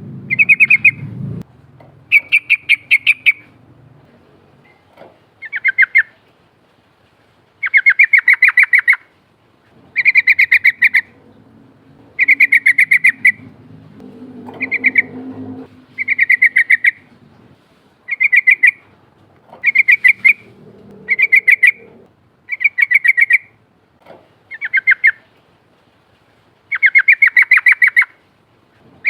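Yellow-vented bulbul (trucukan) singing its rolling song: short bubbling phrases of rapid chattering notes, each about a second long, repeated every one and a half to two seconds.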